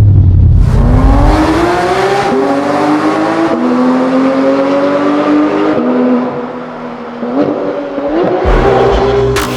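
2024 Audi RS6 Performance's twin-turbo V8 accelerating hard through the gears on its Valvetronic cat-back exhaust, the note climbing in pitch and dropping back at each upshift, about three times.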